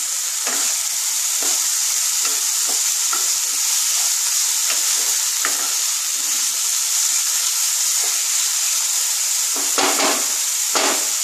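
Chopped vegetables sizzling steadily in oil in a non-stick kadai, stirred with a wooden spatula that scrapes and taps against the pan, with two louder knocks near the end.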